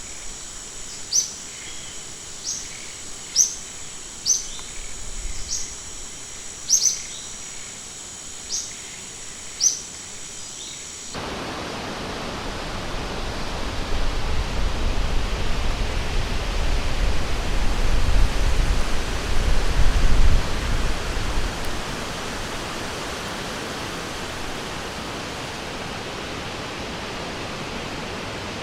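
A bird repeats short, sharp chirps about once a second over a steady high insect drone. About eleven seconds in, it cuts abruptly to the steady rush of flowing water, with a low rumble swelling and fading in the middle.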